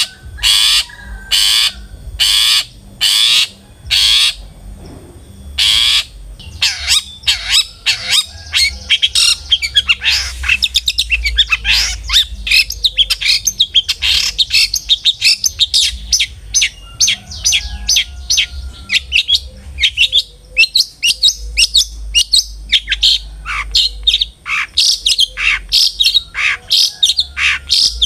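Long-tailed shrike (cendet) singing: loud harsh calls about twice a second at first, then from about six seconds in a rapid, varied chattering song of many short notes.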